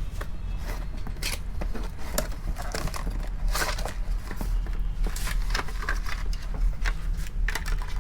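Irregular clicks and rustles of a small object and its packaging being handled, over a steady low hum.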